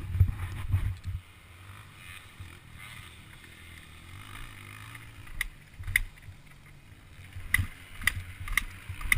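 Motocross bike engine with wind buffeting the microphone for about the first second, then a quieter, steady engine hum. Several sharp knocks come in the second half.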